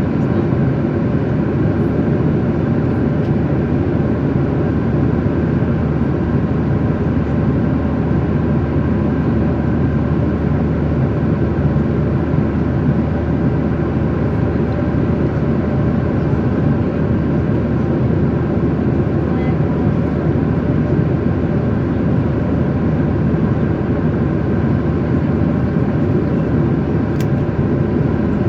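Steady noise of a jet airliner heard from inside the passenger cabin: an unbroken low rumble of engines and airflow with a faint steady hum.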